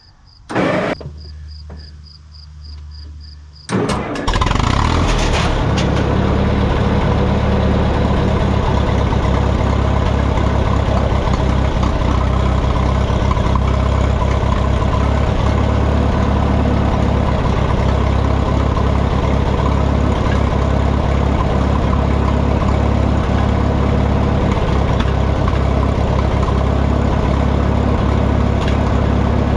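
Minneapolis Moline tractor's gasoline engine started without choke: a click, a few seconds of starter cranking, then the engine catches about four seconds in and runs steadily and loudly.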